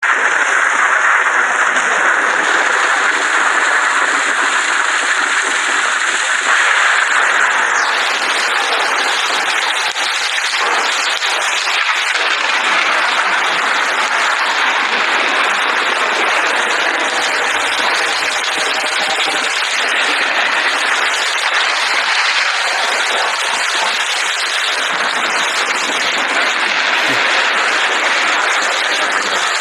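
Steady rain falling, a dense, even hiss with no thunder; its tone shifts slightly about eight seconds in.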